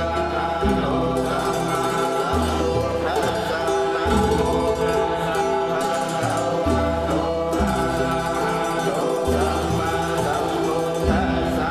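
Buddhist monks chanting Pali verses together in low, sustained voices, the pitch shifting every second or two without a break.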